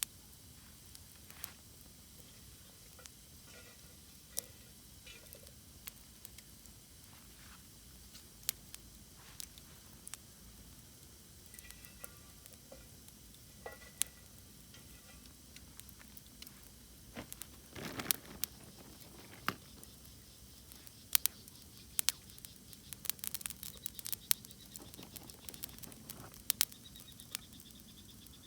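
Wood campfire crackling: irregular sharp pops and snaps over a faint hiss, growing more frequent in the second half.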